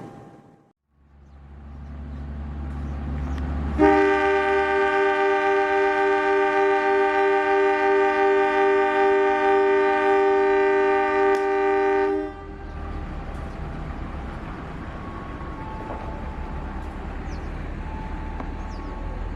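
Diesel locomotive sounding its multi-tone air horn in one long, steady blast of about eight seconds, starting about four seconds in and cutting off sharply. The locomotive's engine rumble runs underneath and carries on after the horn stops.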